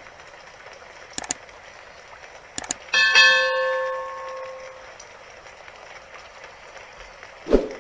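Steady rain hiss with a few sharp clicks. About three seconds in there is a single bell-like metallic ring that dies away over about two seconds. A short thump comes near the end.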